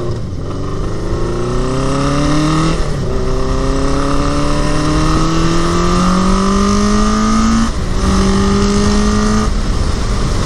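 1981 Honda CB750's inline-four engine accelerating hard through the gears: the pitch climbs in each gear and drops at each of four upshifts. The rider suspects it is not running on all cylinders, or lagging on one.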